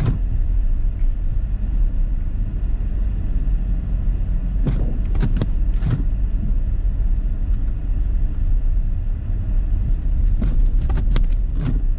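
A car driving on a snow-covered road, heard from inside the cabin: a steady low rumble of engine and tyres.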